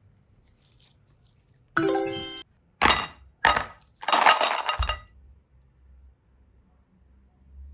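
A short chime-like tone about two seconds in, followed by two sharp glassy clinks and a brief rattling crash-like burst.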